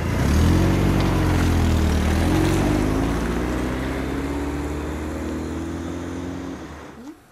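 Car engine running as the car pulls away, loudest at first and fading gradually over several seconds.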